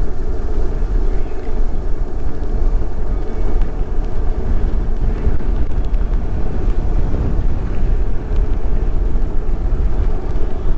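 BMW R1200 boxer-twin motorcycle running at road speed, its engine mixed with a steady low rumble of wind over the helmet microphone.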